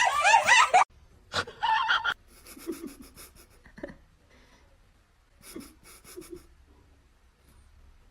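A loud, wavering high-pitched cry in the first second, a shorter cry just after, then soft, rhythmic panting breaths.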